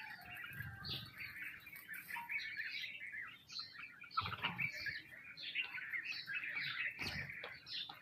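A flock of sparrows chirping and chattering continuously, many short overlapping calls at once, with a few soft low thumps of wing flutter about a second in, after four seconds and near seven seconds.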